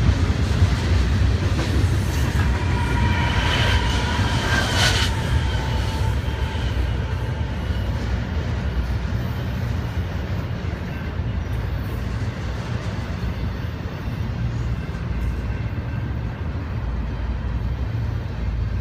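Double-stack intermodal container freight train rolling past at close range: a steady rumble of loaded wagons on the rails. A few high-pitched squealing tones rise out of it about four to five seconds in, then fade.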